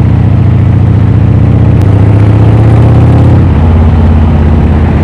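Cruiser motorcycle engine running under way, picked up by a microphone inside the rider's helmet; the engine note shifts about three and a half seconds in.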